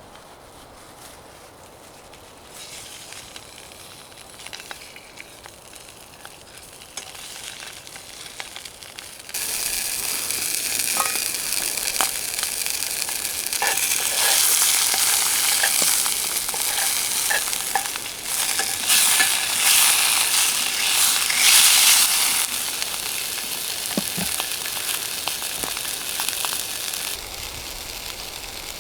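Food frying in a hot pan: a loud sizzle that starts abruptly about a third of the way in, with small crackles, and eases off toward the end.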